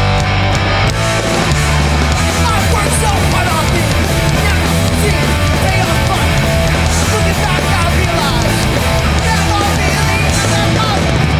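New York hardcore punk band playing live at full volume, with distorted electric guitar and heavy bass.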